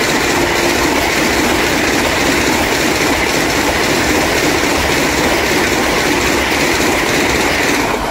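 Vande Bharat electric train running past at about 160 km/h, a steady rushing noise of wheels on rail and air.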